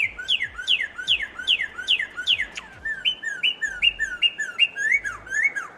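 Northern cardinal singing: a run of clear whistles, each sliding down in pitch, repeated about three times a second. About three seconds in, it switches to a second phrase of shorter, rising-then-falling notes at the same pace.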